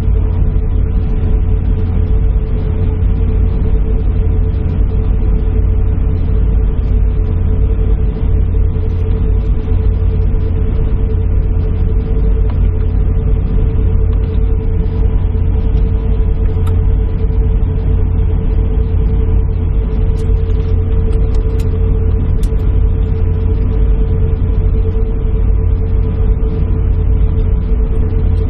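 Steady airliner cabin noise heard from inside the cabin: a loud low rumble with a constant hum, from the jet engines and air system, without any rise in engine power.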